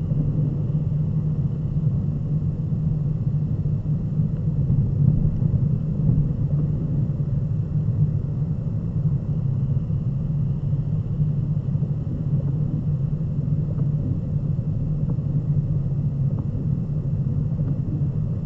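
Corvette Z06's V8 cruising steadily at about 120 km/h, heard from inside the cabin as a constant low drone over road noise on wet tarmac.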